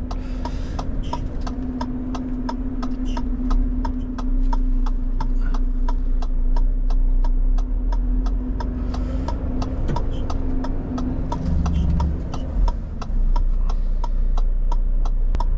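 Inside the cab of a Renault Trucks T480: the turn indicator ticking steadily, about three ticks a second, over the low, steady running of the lorry's diesel engine.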